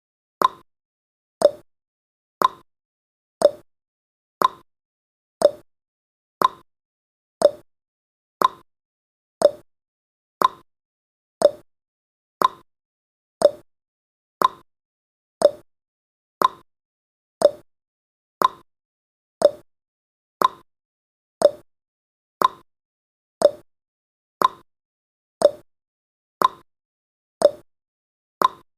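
A countdown timer's clock-tick sound effect, one short, sharp tick every second.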